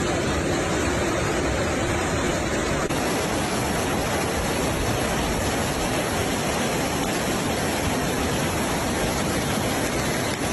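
Floodwater rushing through a street: a steady, even rush of water noise that does not let up.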